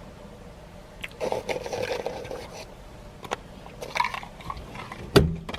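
Eating noises: crunching and handling of food, with scattered small clicks and one sharp knock near the end.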